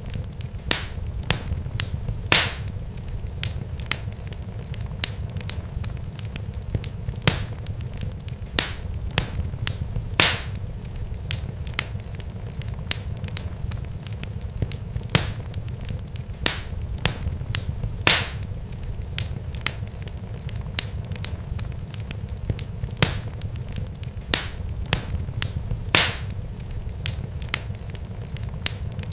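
Irregular sharp pops and crackles, some much louder than the rest, over a steady low rumble.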